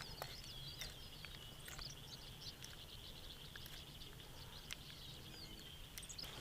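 Birds chirping with short, quick calls over a steady high-pitched drone, with a few faint clicks.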